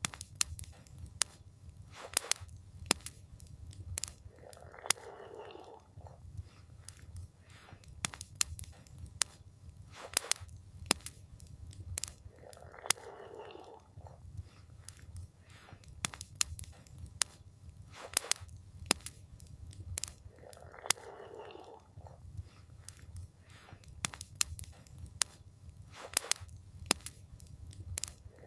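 Campfire crackling: irregular sharp pops and snaps over a low steady rumble, with a short, softer swell coming back about every eight seconds.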